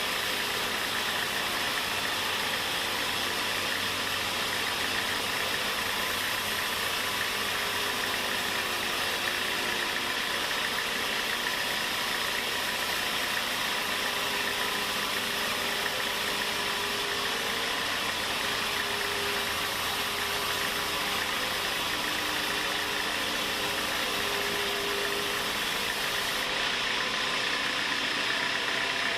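Sawmill machinery running steadily, a continuous even machine noise with a faint hum underneath; the highest part of the hiss drops away near the end.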